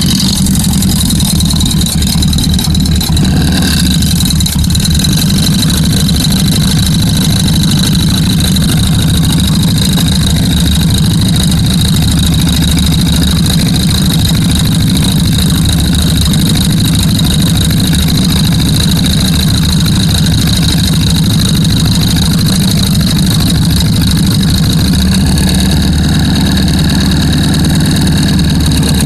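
Vehicle engine running steadily with a low hum and a steady high-pitched whine over it.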